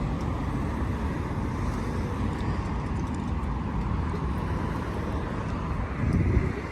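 Steady low rumble of motor-vehicle traffic, swelling briefly near the end.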